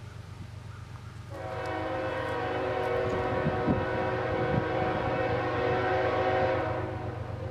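A CSX freight locomotive's air horn sounding one long, steady chord blast that starts about a second in and stops near the end, over a low steady rumble.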